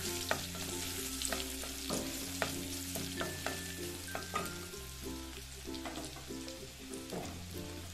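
Chopped ginger sizzling in hot oil in a metal kadai, with frequent sharp pops, stirred with a spatula. Soft background music runs underneath.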